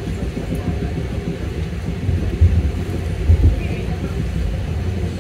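Steady low rumble of an AirTrain JFK car running along its track, heard from inside the car, with a couple of louder bumps a little past halfway.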